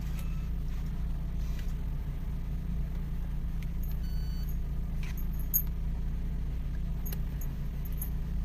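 Car engine idling steadily with a low hum, heard from inside the car, with a few faint clicks and a short high electronic tone about four seconds in.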